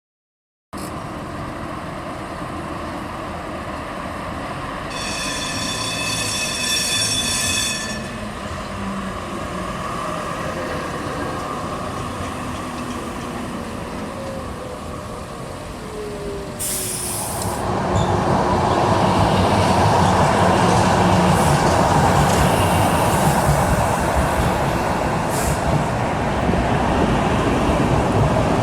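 Tram running on rail, with a high-pitched squeal lasting about three seconds some five seconds in. The running noise grows louder about eighteen seconds in.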